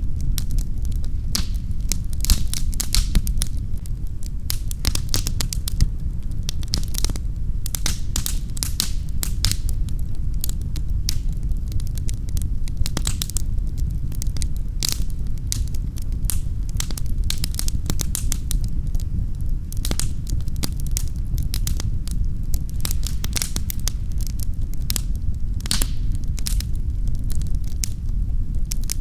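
Wood fire in a fireplace crackling and popping in irregular sharp snaps, over a steady low rumble.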